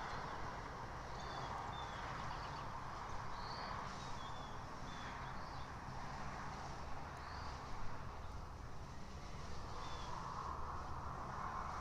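Small birds chirping: short, high, thin notes in scattered bunches over a steady outdoor background hiss.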